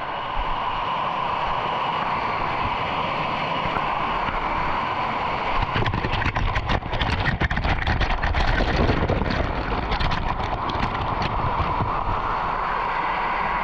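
Waterfall rushing steadily in a rock canyon. From about six to eleven seconds in, louder crackling and low rumbling sit over the rush.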